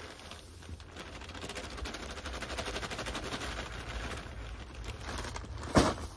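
Electric drill churning tile adhesive in a bucket with a home-made nail-studded stick as the paddle: a fast, even rattling over a steady motor hum, with one sharp knock near the end.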